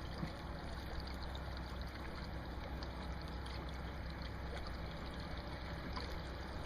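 Steady rush of water with a low rumble underneath, as heard on or beside a boat on a lake.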